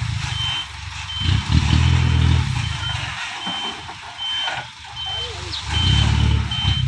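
A dump truck's reversing alarm beeping at one steady pitch about every two-thirds of a second, over the truck's engine, which revs up around a second in and again near the end.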